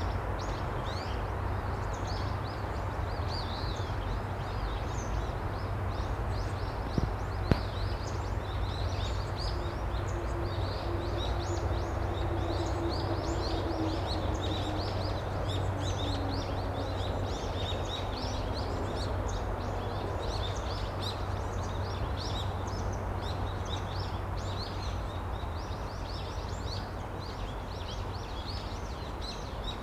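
Many small birds chirping continuously in short, rapid calls, over a steady low rumble. Two sharp clicks come about seven seconds in, and a faint steady drone is heard for roughly ten seconds in the middle.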